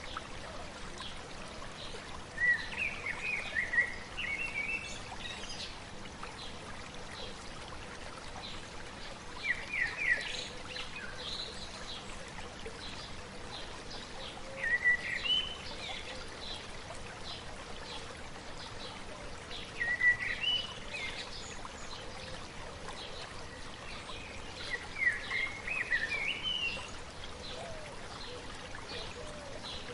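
Shallow river babbling steadily, with a songbird singing short warbled phrases about every five seconds.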